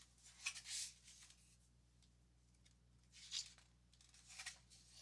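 Near silence with a few faint, brief rustles.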